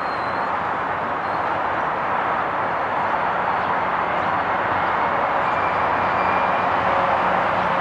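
Steady roar of a GO Transit bi-level commuter train rolling slowly into the station at a distance, growing a little louder, with a few faint thin squeals in the second half.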